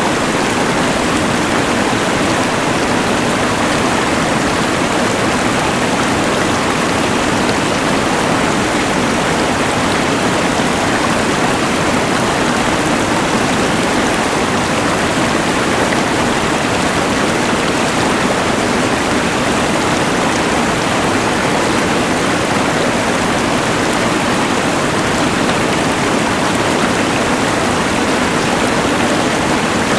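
Steady rushing of a mountain river blended with the even hiss of a LectroFan white noise machine, unchanging throughout.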